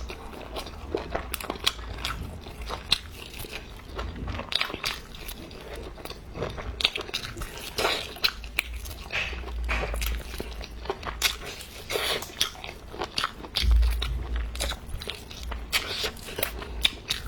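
Close-up eating sounds: chewing and crunching of food in the mouth, with many irregular crisp clicks and smacks.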